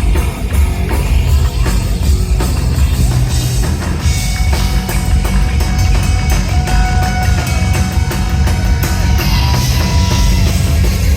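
Rock band playing live and loud, with a drum kit and electric guitar and no singing; a few held guitar notes ring out in the middle.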